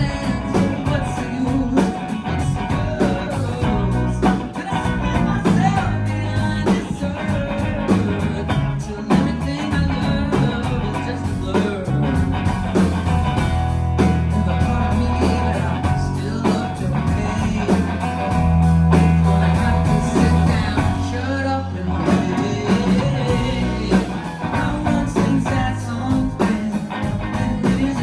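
Live band music from a concert: a singer with guitar-led pop-rock backing and a steady beat. The low end drops out briefly about three-quarters of the way through.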